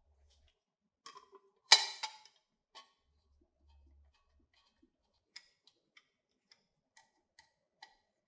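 Small hard parts being handled on a workbench: a few light clicks, then one sharp clatter about two seconds in, followed by scattered single ticks and clicks.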